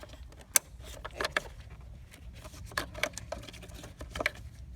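Scattered clicks and knocks of hands working stiff quick-release fuel-line connectors and their plastic lock tabs on a diesel fuel filter housing. The sharpest click comes about half a second in.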